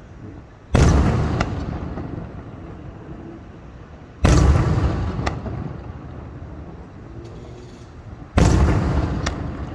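Aerial firework shells bursting: three loud booms about four seconds apart, each followed by a short sharp crack and a long rolling fade.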